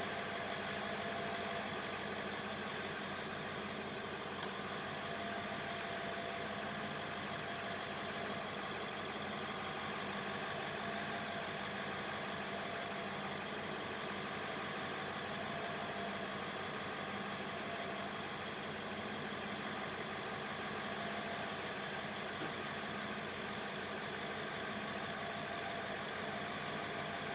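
Truck engine idling steadily, an even running sound that does not change.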